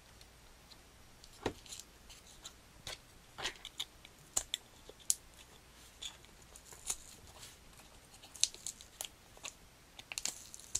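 Small plastic model-kit parts being handled: scattered light clicks and rustles, more of them near the end.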